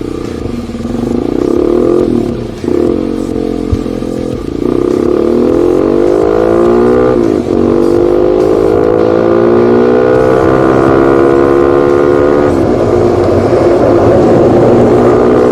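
Dirt bike engine accelerating under load, its pitch climbing steadily and dropping at each upshift, about four gear changes in all, the longest pull running for about five seconds before the last shift.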